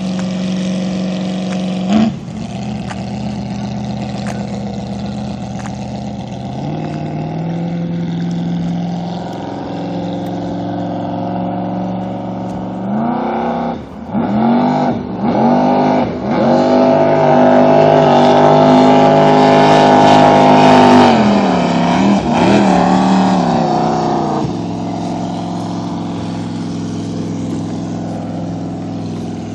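Custom jet boat's engine, a 464 bored .060 over, idling, then revved in several quick blips about halfway through and held at high revs for a few seconds before dropping back to idle. A short knock comes about two seconds in.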